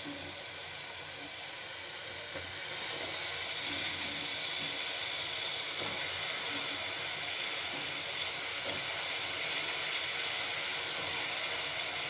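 Onion-tomato masala sizzling in hot oil in a pan. About three seconds in, the sizzle grows louder and stays up as the cut potatoes go in.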